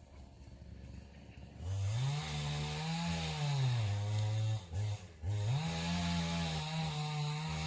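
A dog's long, low moaning vocalization, typical of a contented dog. It starts about two seconds in, rising and falling in pitch, breaks off briefly, then resumes as one long, steady held moan.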